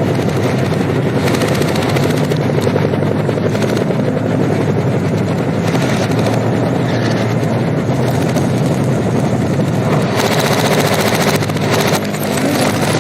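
Film battle soundtrack played in reverse: dense, continuous machine-gun fire and helicopter noise over a heavy low rumble, with a short drop in level near the end.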